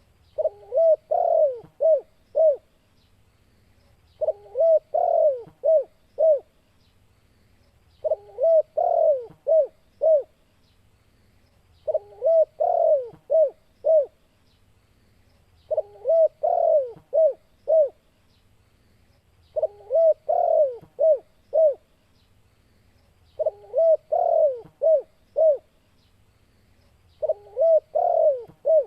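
Spotted dove (tekukur) cooing its song phrase over and over, about every four seconds, eight times: each phrase is a rolling run of coos followed by a few short clipped coos.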